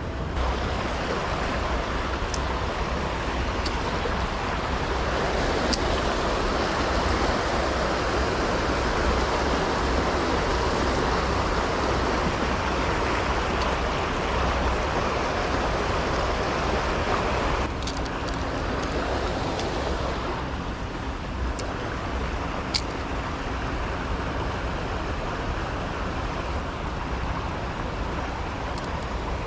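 Steady rushing of river water with low wind rumble on the microphone; the noise eases slightly about eighteen seconds in, with a few faint clicks.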